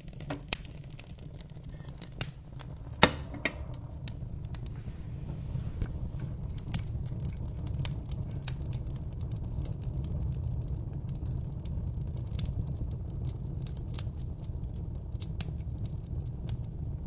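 Wood fire crackling: scattered sharp pops and snaps over a steady low rumble, with one louder pop about three seconds in.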